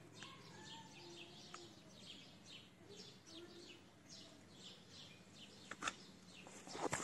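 Small birds chirping faintly, a steady run of short, high, falling chirps a few times a second. A sharp click about six seconds in, then a brief louder burst of noise at the very end.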